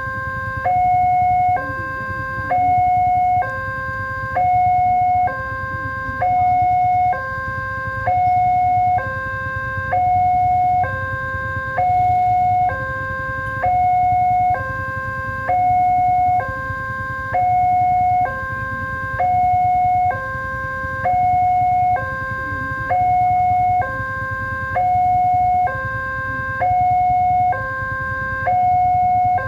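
Electronic warning alarm of a railway level crossing sounding continuously: two tones alternating, a lower and a higher one, each held about a second, the higher one louder, over a steady low rumble.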